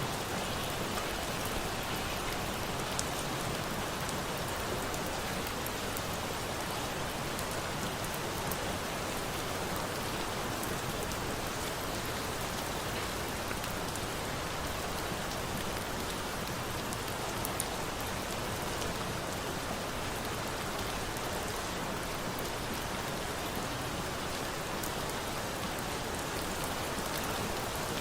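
Steady rain falling: an even hiss with scattered faint ticks.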